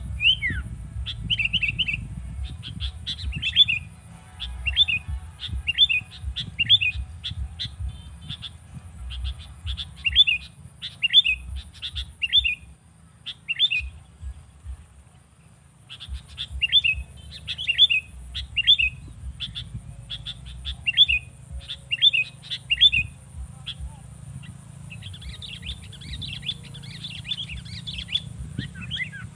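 A bird calling over and over in short, high chirps, about one or two a second, with a brief pause partway through and a burst of quicker chattering near the end. A low rumble runs underneath.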